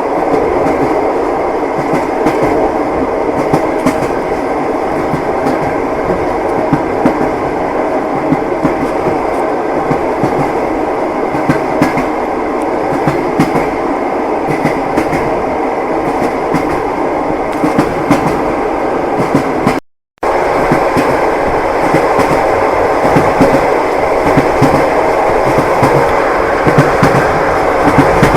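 Passenger train carriage heard from inside, with a steady rumble and the irregular knocking of wheels over rail joints. The sound cuts out for a split second about twenty seconds in, then resumes.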